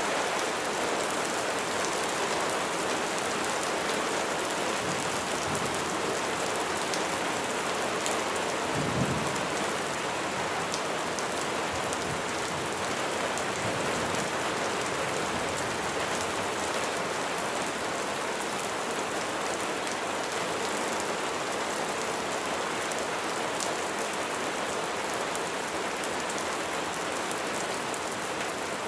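Steady heavy rain falling on a surface, with scattered drop ticks. About nine seconds in there is a short low rumble of thunder.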